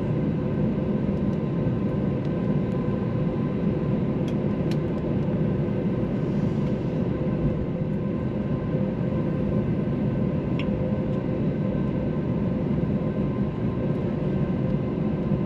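Steady low rumble and hum of an Airbus A321's engines at low power, heard inside the cabin, with a few faint clicks.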